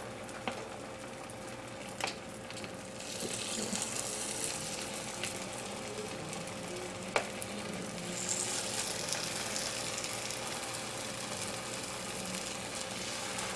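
Egg fu yung patties frying in oil in a cast iron skillet: a soft, steady sizzle that grows about three seconds in and again around eight seconds as more egg mixture is ladled in, with a couple of sharp clicks of the metal ladle against the pan. The sizzle is gentle; the cook judges the pan not quite hot enough.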